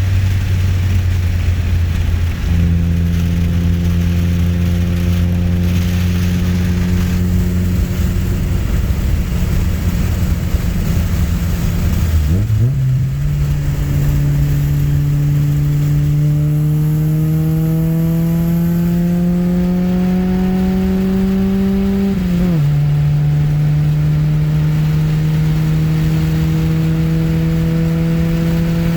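Honda CB7 Accord's swapped F23A SOHC VTEC four-cylinder engine running while driving: a steady drone, then about twelve seconds in the pitch dips and climbs. It rises slowly under acceleration for about ten seconds, drops sharply at a gear change, then holds steady.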